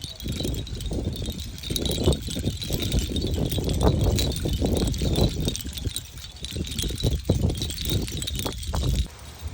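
Hanging seashell chimes clinking and rattling against each other in the wind, a continuous light jingle, with gusts of wind rumbling on the microphone.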